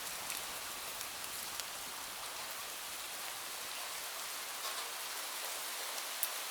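Steady rain falling, an even hiss with a few scattered sharp drop ticks, most of them near the end.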